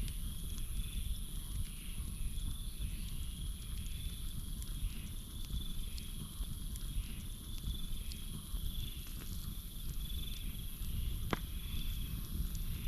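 Campfire crackling with scattered small pops and one sharp pop about eleven seconds in, over a low steady rumble. Behind it runs a steady high-pitched insect chorus, with a call repeating about once a second from crickets or frogs.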